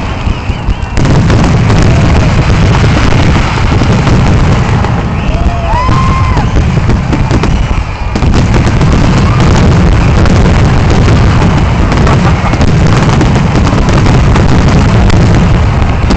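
Fireworks finale: a rapid, nearly continuous barrage of shell bursts and booms piling on top of one another, with a few short whistles rising and falling in pitch.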